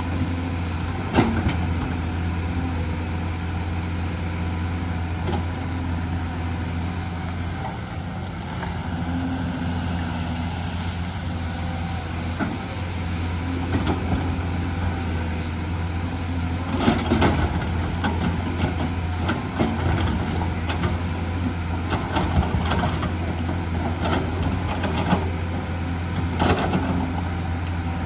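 Hyundai excavator's diesel engine running steadily under work, with scattered sharp knocks and clanks from the digging, most of them in the second half.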